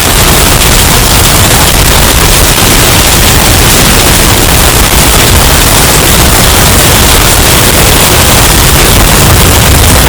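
Hurricane wind sound effect, bass boosted and heavily distorted into a loud, clipped, steady roar of noise with heavy bass.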